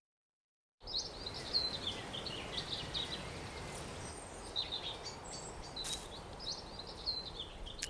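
Small birds chirping in short, repeated calls over a steady outdoor background hiss, starting about a second in.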